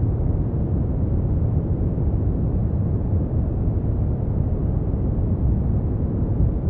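Steady brown noise: a deep, even rumbling hiss, strongest in the bass and falling away toward the treble, with no changes.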